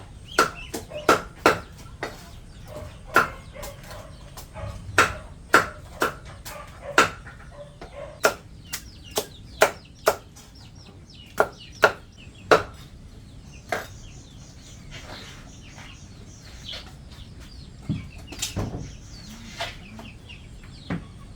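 A run of sharp, irregular chopping strikes, roughly one or two a second, that stops about thirteen seconds in; a few softer thuds follow near the end.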